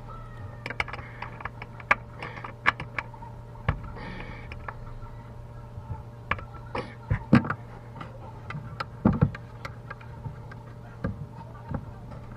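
Irregular clicks and knocks from tools and parts being handled during a garbage disposal installation, over a steady low hum; the sharpest knocks come about seven and nine seconds in.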